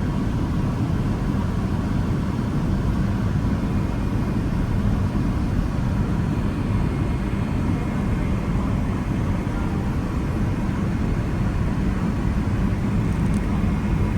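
Steady cabin noise of a Boeing 777 in flight: an even, low rumble of jet engines and rushing air heard from inside the passenger cabin.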